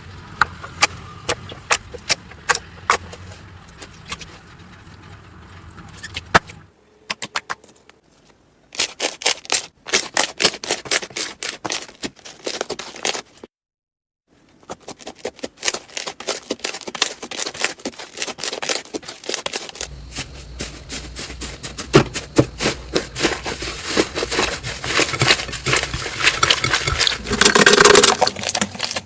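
Slime being squeezed, poked and stretched by hand, making dense wet clicking and popping as air pockets burst. It comes in several short takes broken by brief silent cuts, the busiest near the end.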